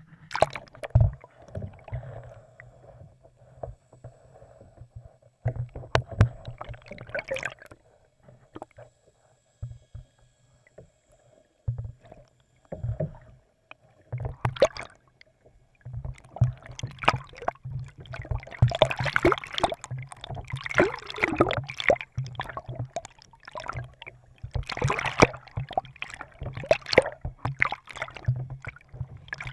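Kayak being paddled on the sea: irregular splashes and knocks of the paddle against water and hull, coming thicker and busier in the second half.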